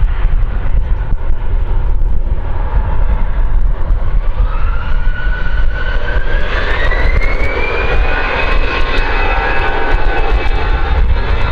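Jet aircraft engines over a heavy, constant low rumble. From about a third of the way in, a whine rises in pitch over a few seconds as the engines spool up, then holds steady.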